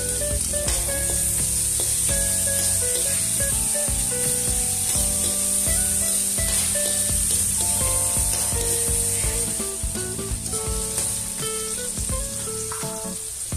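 Chopped onion and garlic sizzling in hot fat in a wok, with a metal spoon stirring and scraping against the pan. Background music plays along with it.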